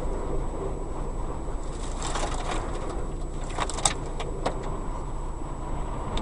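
Strong wind rumbling on the microphone over street traffic, with a few light clicks and one sharp click about four seconds in.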